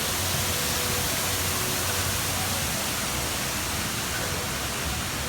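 Indoor artificial waterfall in a shopping centre: a steady rush of falling water.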